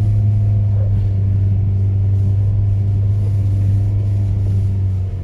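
Four-wheel drive's engine running with a steady low hum.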